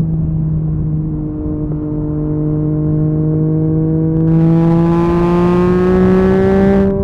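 Yamaha MT-09 three-cylinder engine through an Akrapovic carbon exhaust, pulling in gear with its note climbing slowly. About four seconds in it turns louder and harsher under harder throttle, then cuts back abruptly just before the end as the throttle closes.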